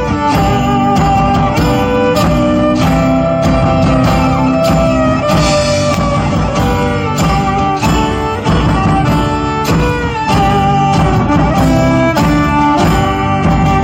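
Live band playing gypsy-style music: a violin carries the melody over a steadily strummed acoustic guitar.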